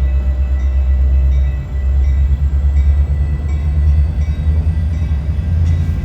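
Train passing with a steady heavy low rumble.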